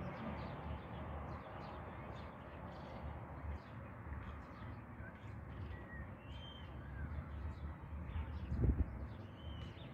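Birds calling, with many short chirps and a few brief whistled glides, over a steady low rumble. A dull thump stands out near the end.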